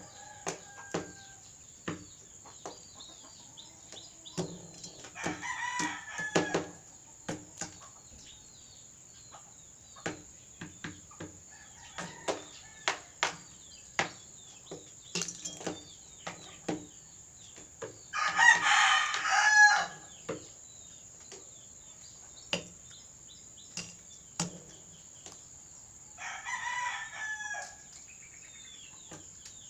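A rooster crows three times, the loudest crow about two-thirds of the way through, between many short sharp taps of its beak pecking at nachos.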